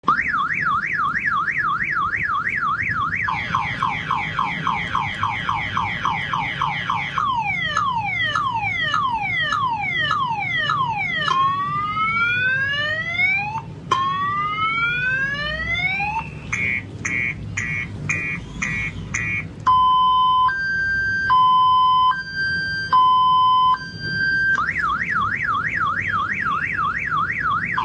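Electronic multi-tone siren working through its cycle: a fast warble, then a higher, faster warble, a run of quick falling sweeps, two long rising whoops, a burst of rapid chirps and a two-note hi-lo, before it returns to the warble near the end.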